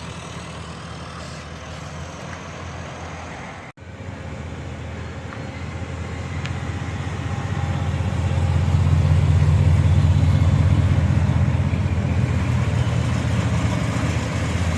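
Diesel Land Rover engine running as it drives in slowly, growing louder from about six seconds in and then easing off a little.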